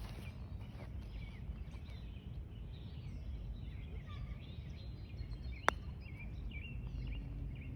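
Birds chirping over a steady low rumble outdoors, with a single sharp click of a golf club striking a ball about three-quarters of the way through.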